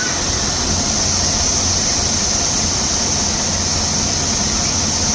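Cicada chorus: a loud, steady, high-pitched buzzing from many cicadas in the trees, unbroken throughout, over a low, steady engine hum of road traffic.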